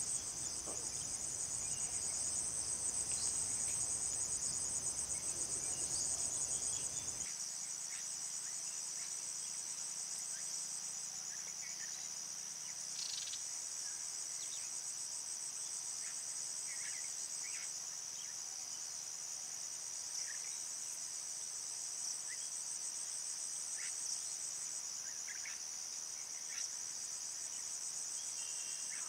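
A steady, high-pitched chorus of crickets trilling without a break. A low rumble underneath stops abruptly about seven seconds in, and a few faint short chirps sound now and then.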